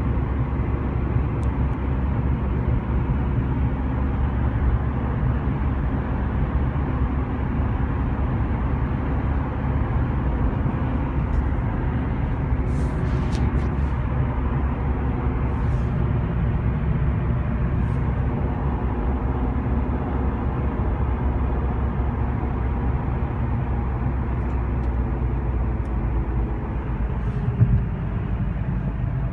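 2013 Honda Civic on the move: a steady low road and drivetrain rumble, with faint tones in it that drift in pitch in the second half, and one short knock near the end. This is the strange noise the car makes when decelerating since its front passenger wheel hit a curb.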